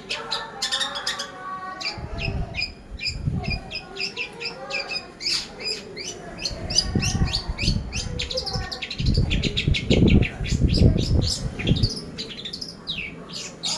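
Long-tailed shrike (cendet) singing a fast, chattering 'pastol' song of short, sharp chirps and scratchy notes in quick succession. Bursts of low rumbling noise come about two seconds in, again around the middle, and more strongly near the end.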